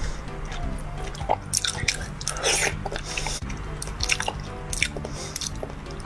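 Close-up biting and chewing of crunchy frozen food: a string of sharp crunches, with soft background music.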